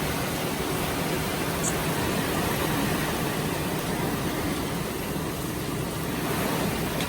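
Heavy tropical-storm rain and wind: a steady, even rush of noise with no letup.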